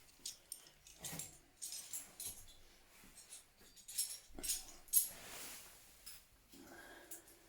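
Metal parts and hand tools clinking and knocking during motorcycle disassembly: a series of sharp irregular clicks, the loudest clank about five seconds in, followed by a short scraping rustle.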